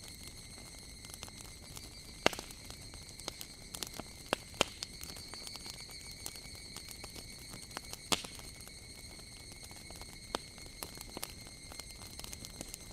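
Wood fire crackling, with irregular sharp pops and snaps; the loudest come a little after two seconds in, around four and a half seconds, and about eight seconds in. Behind it runs a steady, high-pitched drone of higurashi (evening cicadas).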